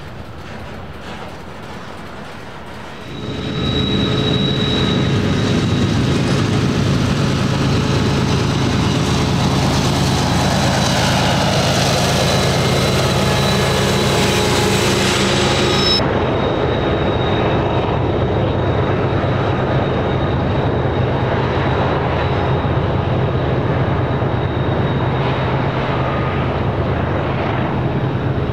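Freight train's diesel locomotives running, a steady low hum with a thin high whine over it. It comes in suddenly about three seconds in, after a quieter start.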